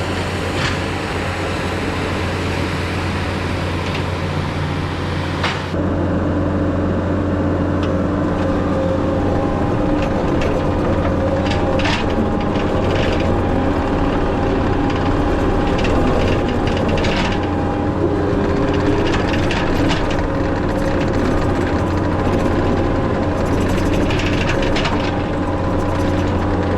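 Skid steer engine running steadily under work. About six seconds in the sound changes and a steady whine joins it, with scattered knocks and clanks.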